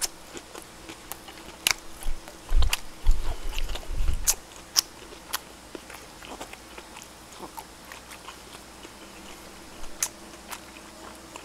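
Close-miked chewing of a mouthful of duck wrapped in pickled radish: scattered wet clicks and smacks, heaviest a few seconds in, over a faint steady hum.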